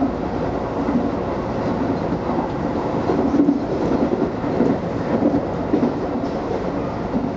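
Tobu 20050 series electric commuter train running at speed, heard from inside the front car: a steady rumble of wheels on rail with recurring low bumps from the track.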